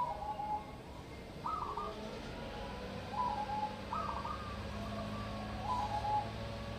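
Zebra dove (perkutut) cooing: about five short, rolling coo phrases, repeated every second or two.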